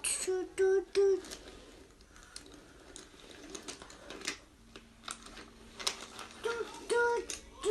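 Toy train tooting: runs of short hooting 'toot' sounds at the start and again near the end, with clicking of the toy's moving parts between them and a faint steady hum from about halfway through.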